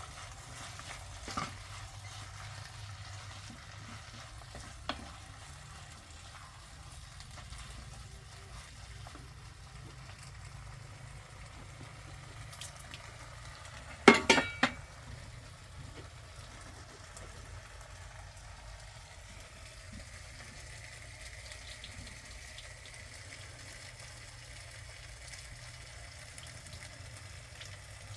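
Food sizzling in a frying pan, a steady hiss, with a few sharp knocks about halfway through.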